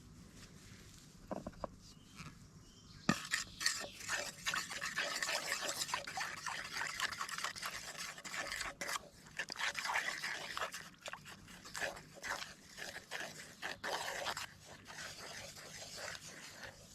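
A utensil scraping and stirring in a bowl: a rapid scratchy sound that starts about three seconds in and pauses now and then.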